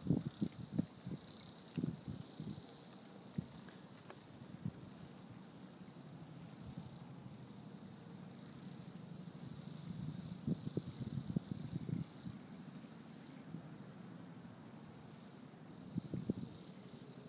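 Songbirds singing in a chorus, a steady run of repeated high chirping phrases, with scattered low knocks, mostly in the first couple of seconds and again later.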